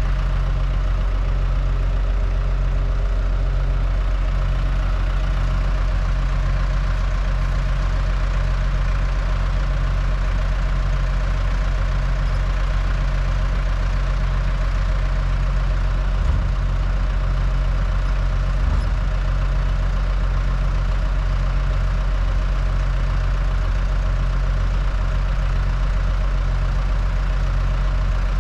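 Loader engine idling steadily. Two short knocks sound about two seconds apart in the middle.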